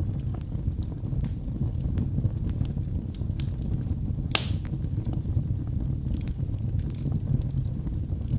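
Wood fire burning in a fireplace: a steady low rumble of flames with scattered sharp crackles and snaps of burning wood, one louder pop about halfway through.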